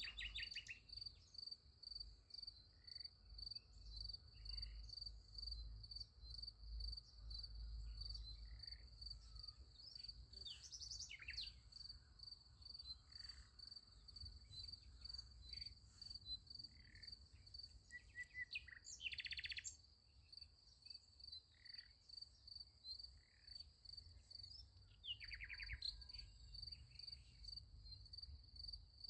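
Crickets chirping in a steady, evenly pulsed high trill, with a few short sweeping bird calls over it, loudest about 11, 19 and 25 seconds in, and a faint low rumble underneath.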